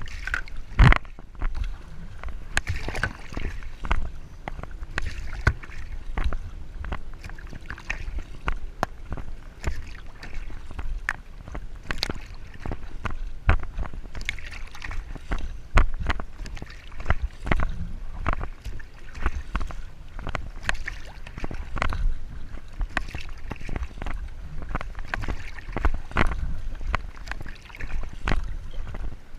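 Sea water sloshing and splashing against a kayak, in many irregular small splashes over a low steady rumble.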